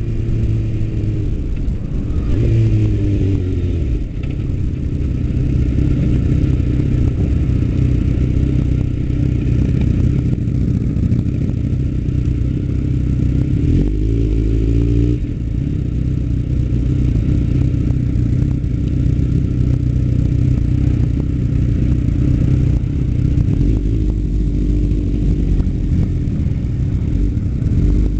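Suzuki GSX-R motorcycle's inline-four engine running while riding along at a steady pace, its pitch shifting a few times as the revs change, once near the start and again about halfway through.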